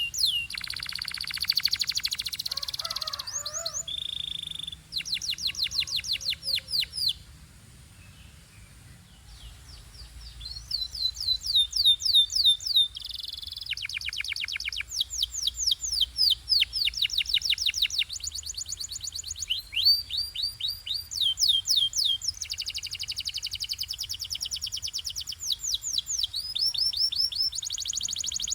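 Canary singing: rapid trills and rolls of quick repeated falling notes, one phrase after another, with a brief pause about a third of the way in.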